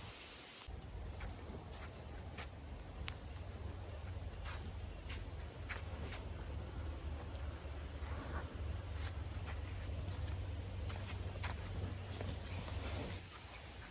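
A steady, high-pitched insect chorus, crickets or similar, starts abruptly about a second in. A low rumble runs beneath it, with scattered light ticks.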